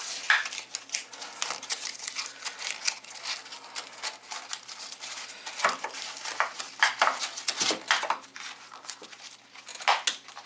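Cardboard being handled and worked: irregular crinkling, scraping and rustling with many short sharp clicks and knocks.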